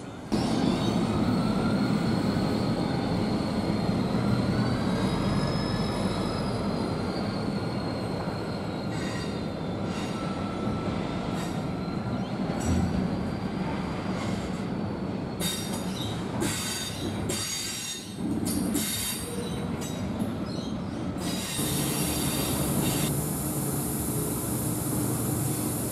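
Container freight train rolling past, its steel wheels squealing with wavering, gliding tones over a steady rumble, and sharp clicks as the wagons pass over rail joints. About 21 s in it gives way to a passenger train's steady hum with a high hiss.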